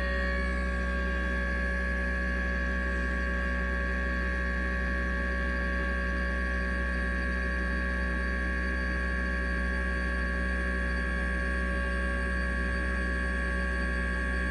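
Steady electrical hum with several constant high-pitched whining tones above it, unchanging throughout.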